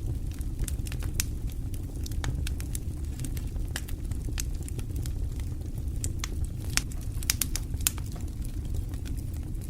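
Wood fire burning: a steady low rumble with irregular crackles and sharp pops, a few louder pops near the end.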